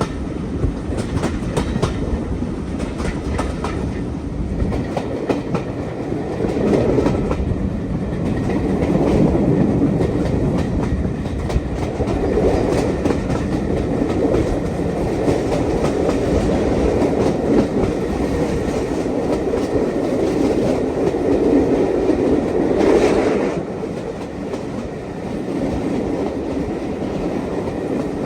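Railway carriages running steadily along the track, their wheels clicking over the rail joints with a continuous rumble, and a brief louder swell about 23 seconds in.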